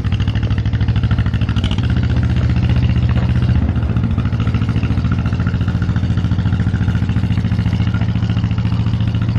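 Engine running steadily with a quick, even chugging beat.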